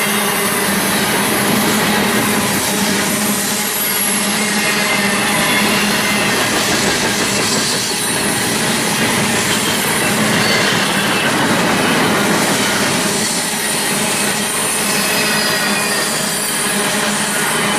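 Freight train passing at speed: a steady, loud rush of wheels on rail, with faint high wheel squeal.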